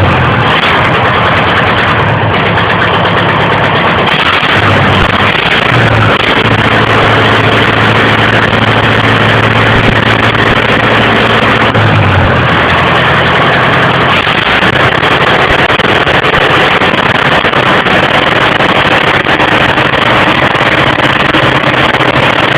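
DT-75 crawler tractor's SMD diesel engine running after start-up, loud and steady, with its engine speed shifting a few times.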